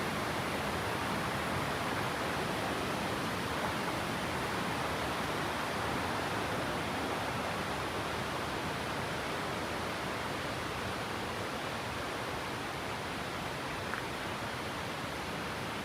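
Steady rush of flowing or falling water, an even hiss that does not change.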